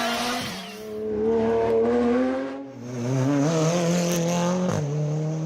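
Rally car engines at full throttle. The pitch climbs and drops sharply at each gear change, about half a second in and again near the end, and the sound swells and fades twice as cars pass.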